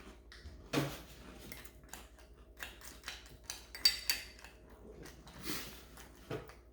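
Spoons clinking and scraping against cereal bowls in scattered light knocks, with one short ringing clink about four seconds in.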